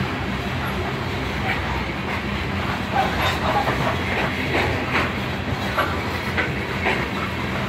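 Coal cars of a unit coal train rolling past: a steady rumble of steel wheels on rail, with irregular clacks as the wheels cross rail joints, more frequent from about three seconds in.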